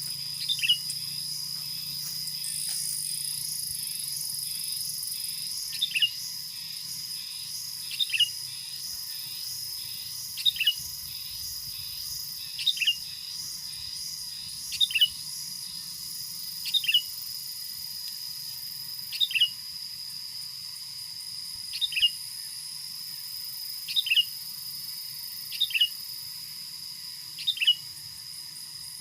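A bird giving a short, sharp two-note call about every two seconds, about a dozen times, with a gap of several seconds after the first. Steady high-pitched insect buzzing and trilling continue behind it.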